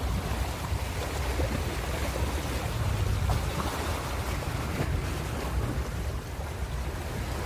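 Ocean surf washing in continuously, with wind buffeting the microphone and adding a low rumble.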